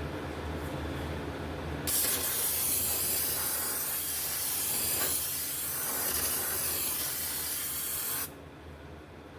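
Pressurised spray hissing steadily as a part is cleaned off. It starts about two seconds in and cuts off suddenly after about six seconds.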